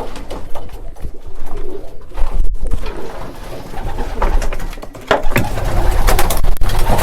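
Racing pigeons cooing in the loft, with scattered sharp clatters through it, louder in the second half.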